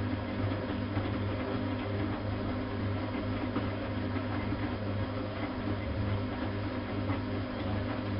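Bosch WFK 2431 washing machine running steadily, its motor giving a constant low hum with a steady whine above it.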